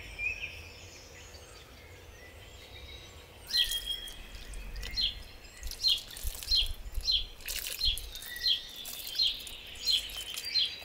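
A small bird chirping repeatedly outdoors, short sharp notes about twice a second starting a few seconds in. Near the end, water pours from a watering can onto the potting soil.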